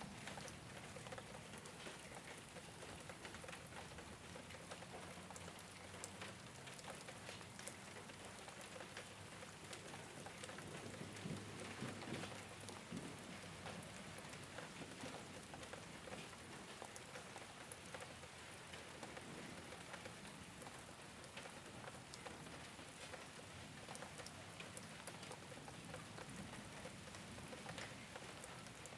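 Steady rain falling on a rooftop, a constant hiss scattered with the light ticks of individual drops, a little heavier around the middle.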